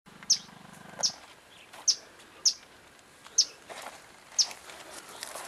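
A bird calling repeatedly: short, high chirps that fall in pitch, about one a second.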